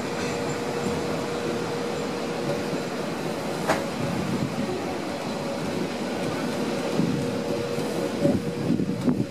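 Metre-gauge Matterhorn Gotthard Bahn passenger train running, its wheels rumbling on the rails with a steady humming tone. A single sharp click comes just under four seconds in, and the clatter grows rougher near the end.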